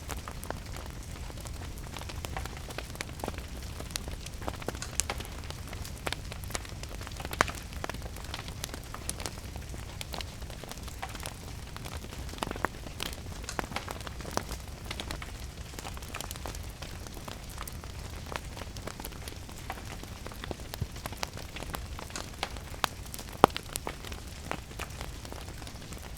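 Wood fire crackling in a fireplace, with frequent sharp pops and snaps, over a steady patter of rain; two louder pops stand out, one about a third of the way in and one near the end.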